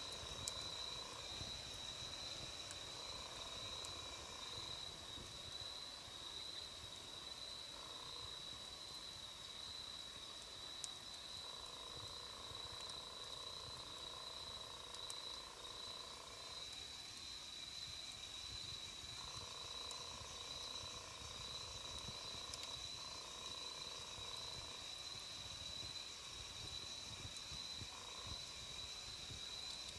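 Night insects singing a steady, high, slightly pulsing trill, with lower calling that comes and goes. A few faint sharp crackles come from a wood campfire.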